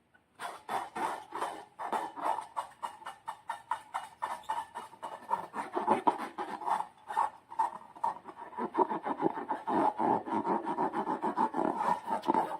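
Slime being squeezed and kneaded by hand: a rapid, continuous run of wet squelching clicks, several a second, starting about half a second in.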